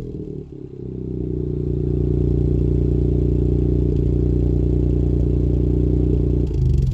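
Ford Fiesta 1.0 EcoBoost three-cylinder petrol engine with its exhaust backbox (rear silencer) removed, settling after a rev and then idling steadily through the louder, straight-through exhaust.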